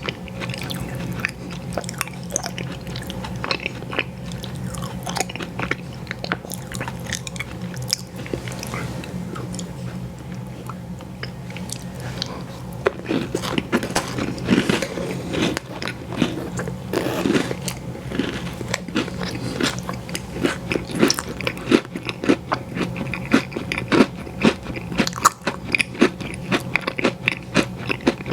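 Close-miked biting and chewing of ice cream sandwiches, with many sharp crunchy clicks that grow denser and louder about halfway through, over a steady low hum.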